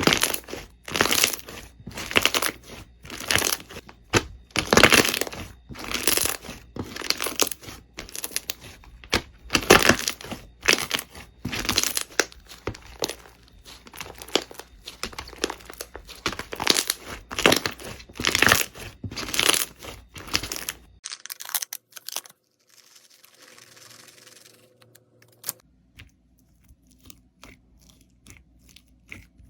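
Crunchy slime being squeezed and pressed by hand, crackling and popping in a rapid run of repeated bursts. About two-thirds of the way through it cuts off sharply to much quieter, softer slime handling with occasional faint clicks.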